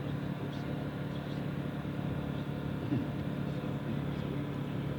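Steady drone of model-aircraft motors and propellers, with several held tones, and a brief pitch change about three seconds in.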